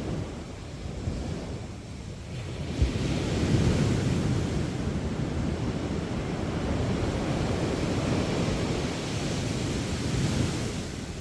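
Sea waves breaking on the beach. A wave surges in about two seconds in and washes up with a long hiss that eases near the end, over a low wind rumble on the microphone.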